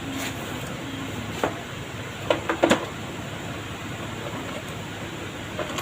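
Metal tools and parts knocking and clicking as the alternator is worked on: several short, sharp knocks, the loudest two close together about two and a half seconds in, over a steady low hum.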